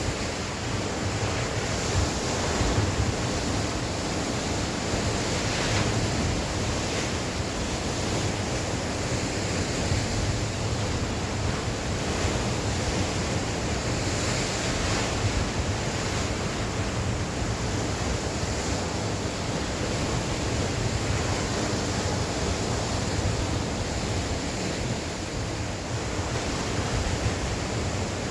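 Sea waves washing on the shore in a steady wash of surf that swells and eases gently, with wind blowing on the microphone.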